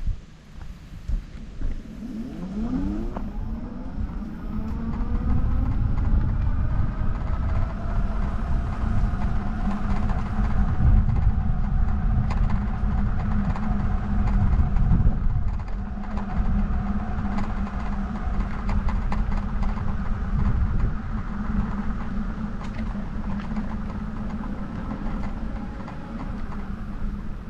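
A vehicle's motor whine rising quickly in pitch a couple of seconds in, then holding steady, over heavy wind rumble on the microphone while riding.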